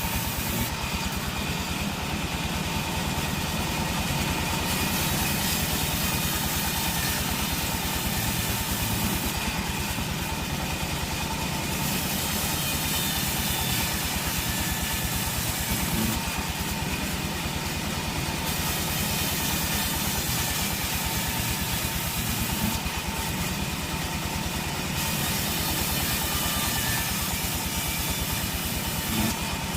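Sawmill machinery running steadily: a mechanical drone with a fast low pulse. The high hiss thins out for a couple of seconds about every seven seconds.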